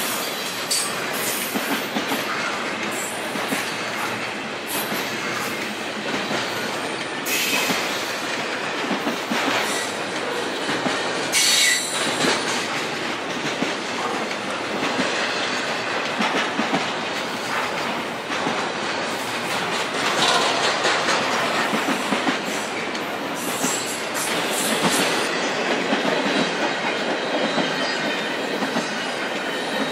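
A train passing close by: a continuous loud rumble and clatter of wheels on the rails, with a few sharp high-pitched screeches of wheel on rail, the clearest about a third of the way through.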